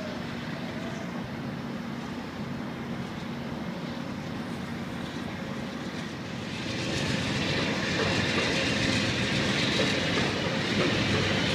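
Amtrak passenger train running along the tracks at a distance: a steady rumble that grows louder and brighter, with more hiss, about two-thirds of the way in.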